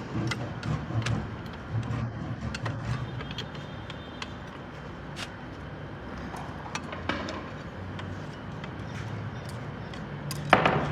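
Scattered light clicks and knocks over a low steady hum, with one loud sharp knock about ten and a half seconds in.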